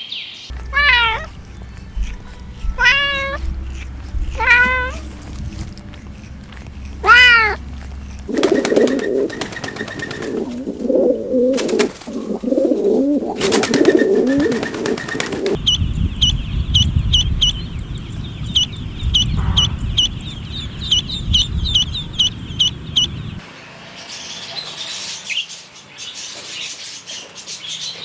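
A run of animal calls. First come four separate falling meow-like calls, likely a cat meowing. Then come lower wavering calls, and then a fast series of short high bird chirps.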